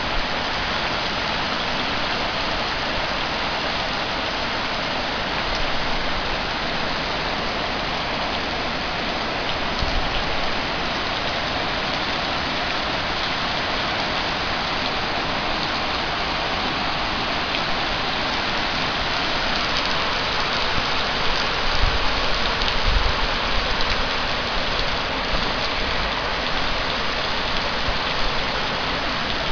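Heavy rain falling steadily, a dense even hiss throughout, with a few brief low rumbles about two-thirds of the way through.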